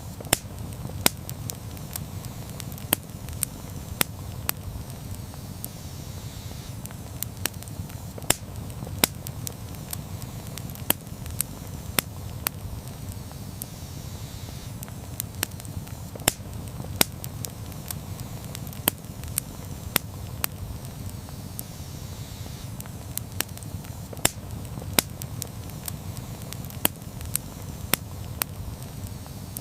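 Wood campfire burning with a steady low rumble and frequent sharp, irregular crackles and pops.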